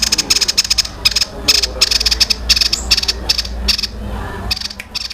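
A songbird's rapid-fire 'tembakan' song: fast trains of sharp, clicking staccato notes in short bursts with brief pauses between them, fading near the end.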